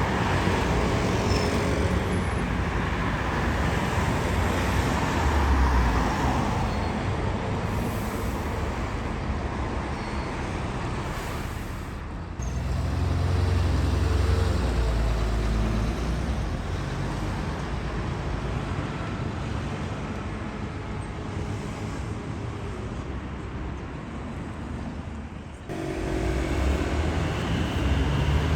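Double-decker bus engine running as the bus drives past, with deep rumble and road traffic noise; the sound changes abruptly twice, about halfway through and near the end.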